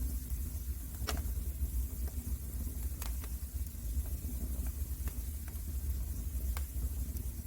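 Wood fire burning in a fireplace: irregular sharp crackles and pops, roughly one a second, over a steady low rumble.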